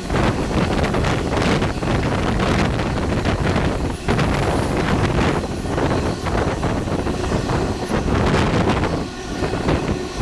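Carajás railway passenger train running: a continuous rumble with irregular clatter from the wheels on the rails, and wind buffeting the microphone.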